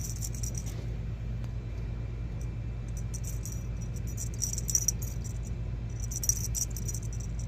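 Light metallic jingling, briefly at the start and again from about six seconds in, over a steady low hum.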